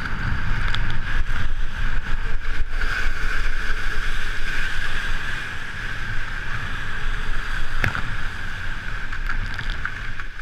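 Rushing surf and wind on the microphone as a surf kayak rides a breaking wave: a steady, loud hiss over a low rumble.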